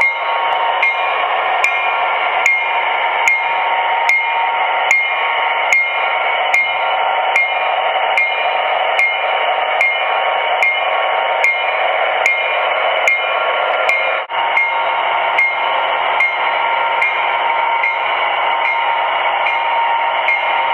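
MTH E8 O-scale model locomotive running on the track: a steady hum with regular clicks of the wheels over rail joints, about one click every 0.8 seconds.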